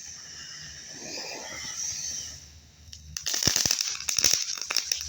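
Ground spinner firework hissing with a faint whistle, fading briefly, then giving off a loud rapid crackling about three seconds in.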